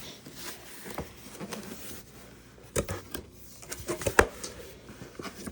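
Cardboard box and paper packaging being handled and opened: light rustling and scraping with a few sharp knocks, the loudest a little under three seconds in and just after four seconds in.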